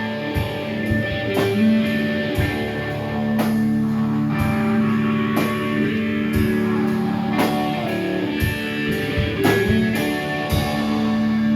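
Live rock band playing: electric guitars over a drum kit, with drum hits about every second and held guitar chords, no vocals.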